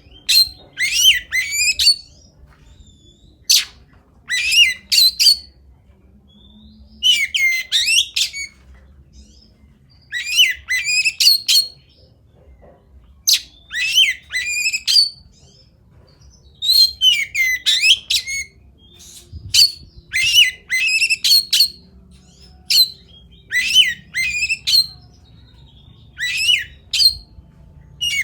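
Oriental magpie-robin (kacer) singing loud, sharp phrases of several quick sweeping notes, each phrase about a second long and repeated every few seconds: the aggressive 'fighter' song style prized by song-bird keepers.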